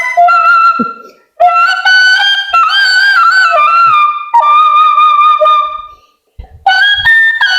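A bamboo flute (bashi) playing a slow melody of long held notes that slide between pitches. The phrases break off into short pauses about a second in and again about six seconds in.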